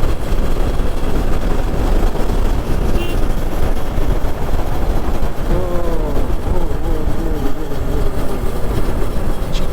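Hero Xpulse single-cylinder motorcycle riding along the road, heard through heavy wind rush on the rider's microphone with a dense low rumble; a faint wavering tone comes in about halfway through.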